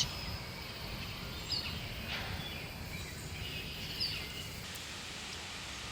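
Steady outdoor background hiss with a few faint, short bird chirps, one about one and a half seconds in and another about four seconds in.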